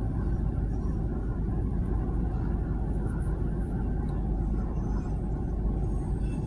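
Steady low rumble of a moving car heard from inside the cabin: road and engine noise, even throughout.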